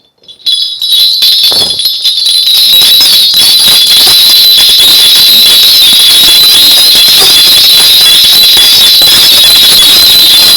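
A cluster of small metal bells shaken rapidly and continuously, loud and steady, starting about half a second in. It is typical of a Korean fortune-teller's ritual hand bells (bangul) shaken before a reading.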